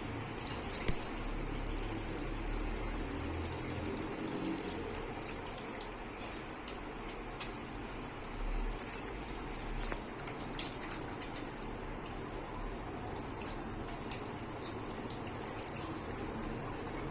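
Running water with scattered small drips and splashes, most frequent in the first half.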